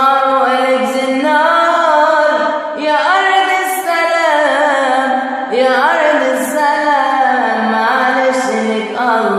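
Singing in a wordless melodic passage: long held notes that glide from one pitch to the next.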